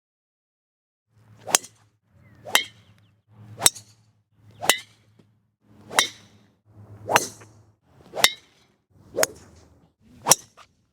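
Golf club swings striking a golf ball, about nine separate shots about a second apart, each a short swish ending in a sharp crack. A faint low hum sits under each shot.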